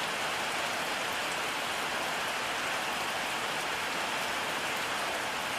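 Steady rainfall, an even hiss with faint ticks of individual drops.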